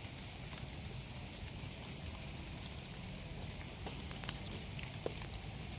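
Steady patter of light rain, with a few sharp clicks about four seconds in.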